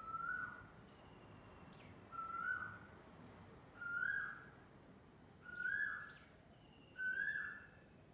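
A bird calling five times, about every one and a half to two seconds. Each call is a short note of about half a second that rises slightly and then holds.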